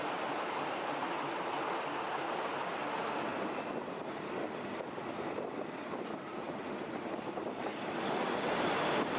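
Passenger train running, a steady rush of wheel and wind noise heard from on board. It eases a little midway and grows louder near the end.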